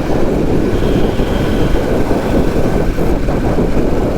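Steady wind rush on a rider's microphone while riding a motorcycle at speed, with the bike's engine and road noise running underneath.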